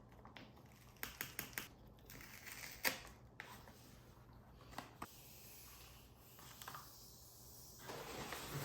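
Packaging and parts being handled during an unboxing: light clicks and taps, a quick run of them about a second in and a sharper click near three seconds, then a rustle near the end.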